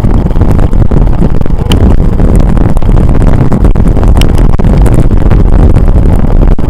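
Wind buffeting the microphone of a camera carried on a moving bicycle: a loud, uneven low rumble.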